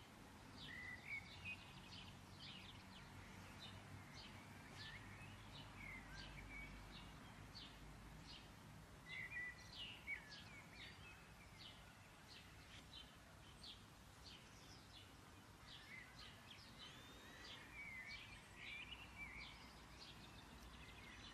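Near silence: faint birdsong, quick repeated high chirps and a few short twittering phrases, over a low steady hum.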